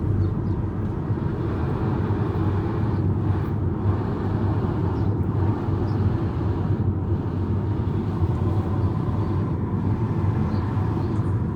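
Steady low rumble of a car being driven, heard from inside the cabin: engine and road noise with no breaks.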